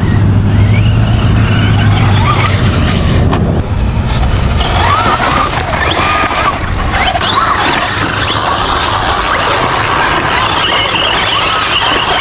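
RC car running with its motor whining, the pitch rising and falling with the throttle. A steady low hum sits under the first few seconds.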